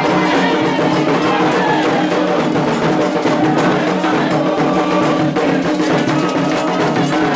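Candomblé ritual music: hand drums and other percussion keeping a steady beat under sustained sung chant.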